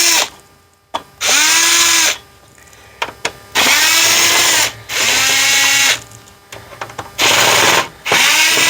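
Power screwdriver run in short spurts of about a second, about five times, backing Phillips screws out of an instrument cluster's back. Its motor whine rises as it spins up and drops as each spurt stops.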